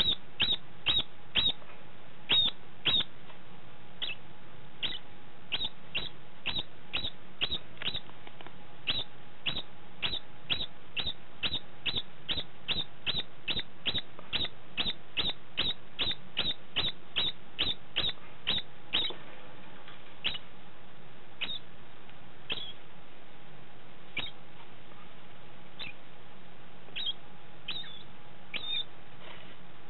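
Degu giving its post-mating call: a long series of short, high squeaky chirps, about two a second through the middle, thinning out to occasional single chirps near the end.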